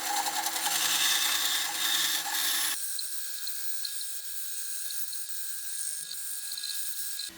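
A small power tool working wood, a steady motor whine with a rough hiss. It cuts off abruptly about three seconds in to a quieter, thinner high hiss that carries on.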